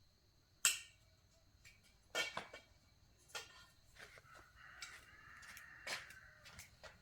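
A few scattered sharp knocks and clicks, with a short scraping hiss in the middle.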